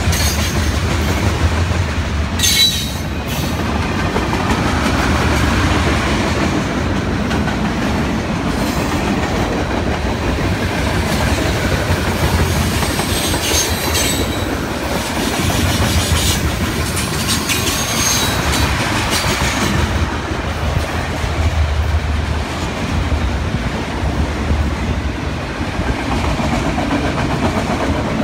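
Norfolk Southern manifest freight cars rolling past: a steady rumble and clatter of steel wheels over the rails, with a few brief high metallic squeals.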